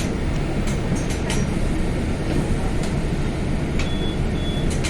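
Steady rumble of a moving commuter train heard from inside the passenger car, with scattered light clicks and two short high beeps near the end.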